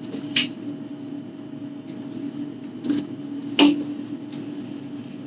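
Three short knocks of containers being handled and set down, the last the loudest, over a steady low hum.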